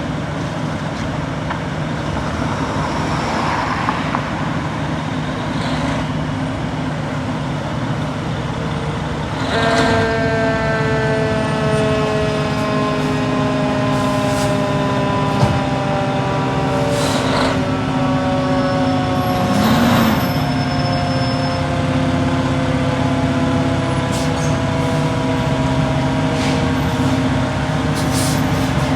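Fire apparatus diesel engines running, with several short air-brake hisses. About ten seconds in, a whining tone starts and slowly falls in pitch for the rest of the stretch.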